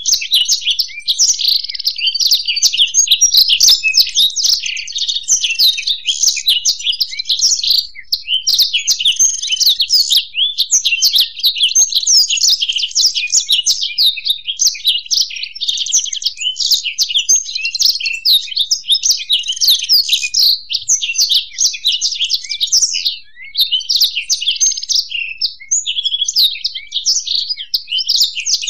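Black-throated canary (blackthroat) and European goldfinch singing together: a continuous, rapid, high twittering song without a pause.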